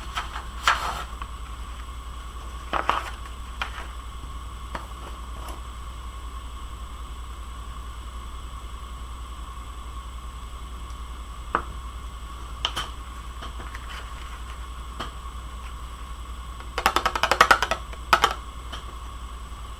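Scattered light taps and clicks of craft supplies being handled on a desk, then a short burst of rapid rattling clicks near the end. A steady electrical hum runs underneath.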